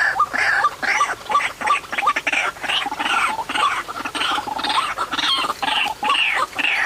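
White-breasted waterhen (ruak-ruak) calling: a continuous rapid series of short repeated call notes, about two to three a second.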